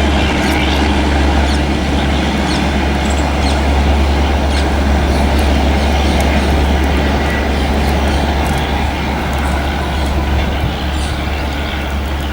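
Indian Railways Rajdhani Express train rolling past slowly: a steady low rumble with running noise and scattered short clicks and squeaks from the wheels on the rails, easing off slightly near the end.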